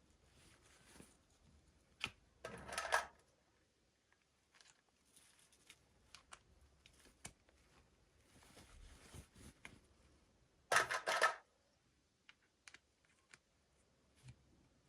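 Hands unboxing small plastic toys: light clicks and rustling of packaging, with two short louder crinkling bursts, one early and one about three-quarters of the way through.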